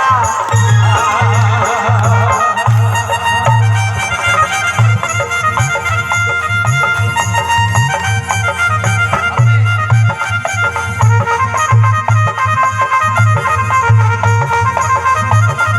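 Instrumental break in a devotional folk bhajan: a drum beats a steady rhythm under a sustained melody instrument. The singer's last held note fades out right at the start.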